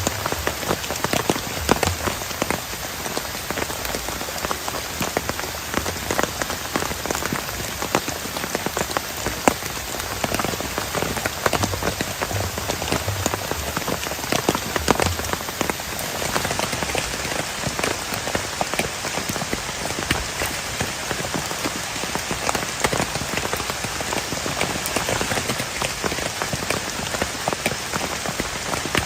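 Heavy rain falling steadily, with a dense patter of drops striking close by.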